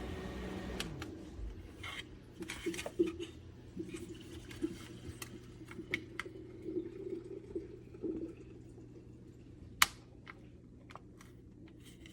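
Small battery-powered clip-on fan humming, then winding down with a falling tone about a second in as it is switched off. Scattered clicks and handling noises follow over a faint steady hum.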